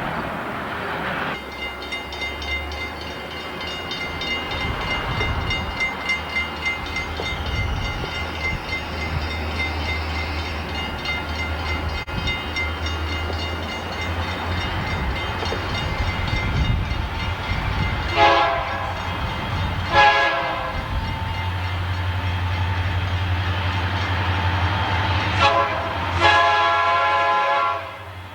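Diesel freight locomotives running with a steady low engine rumble. The horn sounds twice about two-thirds of the way through, then twice more near the end, the last blast the longest.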